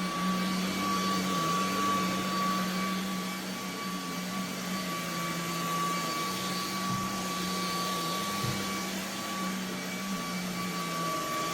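Eureka React Sense cordless stick vacuum running steadily on auto mode while picking up pet hair from a rug: a motor hum under a high, steady whine and the rush of air.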